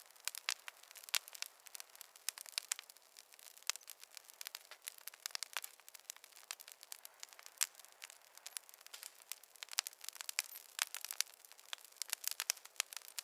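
Wood fire crackling: many irregular sharp pops and snaps, several a second, over a faint hiss.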